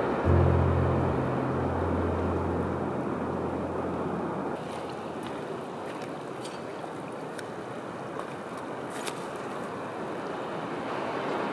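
River water flowing steadily, with a low hum in the first few seconds and a few faint ticks in the middle.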